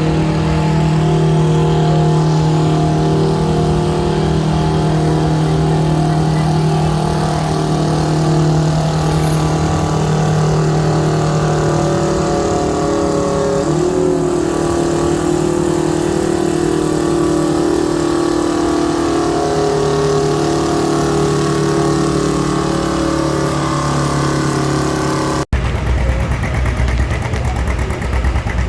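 Antique tractor engine running hard under load as it pulls the sled in a tractor pull, holding a steady, even pitch that wavers and shifts about halfway through. Near the end the sound cuts off abruptly and a different, rougher engine sound follows.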